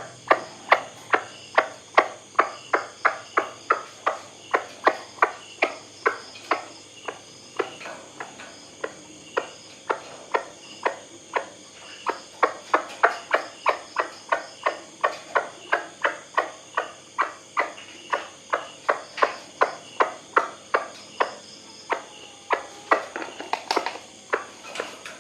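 White-breasted waterhen calling in a steady run of short repeated notes, about two a second, the rhythm growing uneven near the end.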